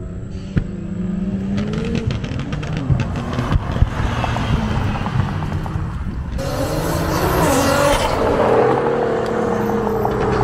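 Supercar engines running hard. Early on one engine's pitch rises, and about six seconds in a louder engine comes in whose pitch then falls slowly, as of a car accelerating past and easing off.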